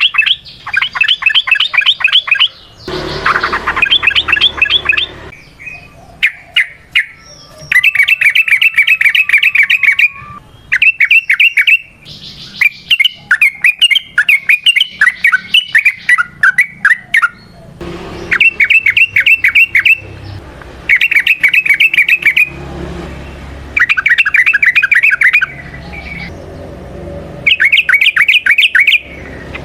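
Yellow-vented bulbul (trucukan) singing its long rapid song (ropel): about ten loud bursts of fast, repeated chattering notes, each a second or two long, with a longer, more varied warbling phrase near the middle.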